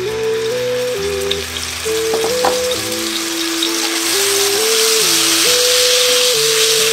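Red chili spice paste sizzling as it is stirred in hot oil in a non-stick wok, the sizzle growing louder partway through, under background music with a simple stepping melody.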